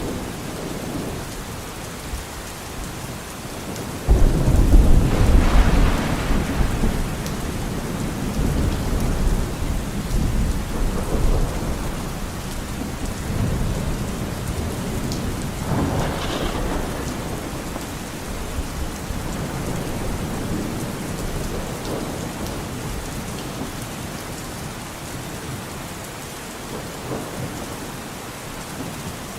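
Steady rain falling, with thunder: a sudden loud clap about four seconds in that rumbles for a couple of seconds, and a second, softer roll of thunder about halfway through.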